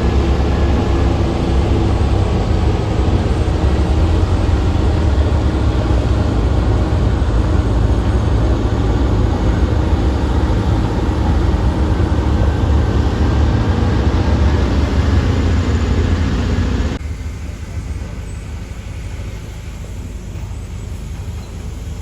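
Heavy diesel vehicle engine running with a deep, steady rumble; about 17 seconds in it drops suddenly to a quieter rumble.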